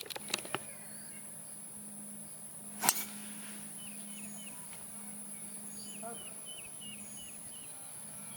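A single sharp crack of a golf club striking a ball about three seconds in, over a steady high-pitched insect buzz and a faint low hum. A few short chirps repeat in the second half.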